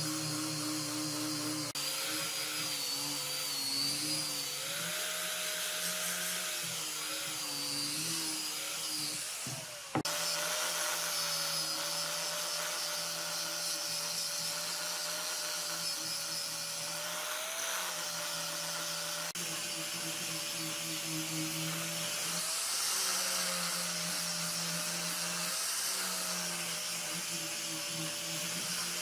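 Electric power tool motor running steadily in woodworking, its pitch wavering slightly as the load changes, with an abrupt break about a third of the way through.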